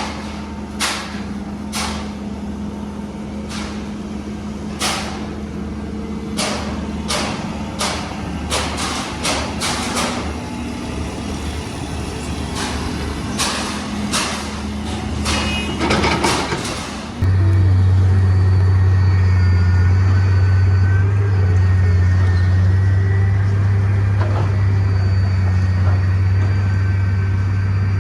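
Heavy construction machinery running: a steady engine hum with repeated clanks and knocks, then an abrupt change, about two-thirds of the way in, to a louder, steady low engine drone.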